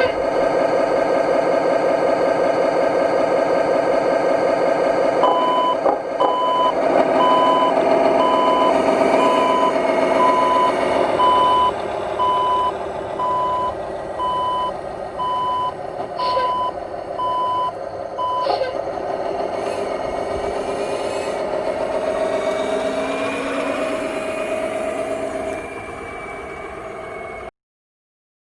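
Diesel truck engine running, with a reversing beeper sounding about once a second for some thirteen seconds; later the engine revs up, and the sound cuts off abruptly near the end.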